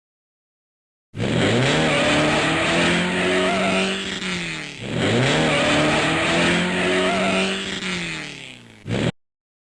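Racing car engine sound effect: about a second in, the engine revs up and holds a high pitch. Midway it drops briefly and revs up again, then winds down and fades near the end.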